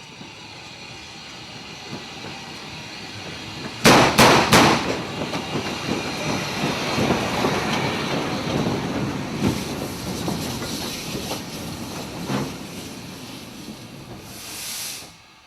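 Railway detonators exploding under a train's wheels: three sharp bangs in quick succession about four seconds in, the audible warning that tells a driver to stop for a hazard ahead. The train then runs on, rumbling and clattering over the rails, with a short hiss near the end.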